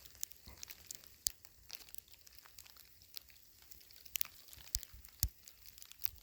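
Faint, irregular crunching and crackling: footsteps in wet, packed snow.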